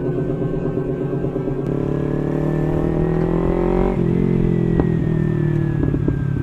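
Motorcycle engine pulling away, its pitch climbing steadily for about four seconds, then dropping suddenly at a gear change and easing down.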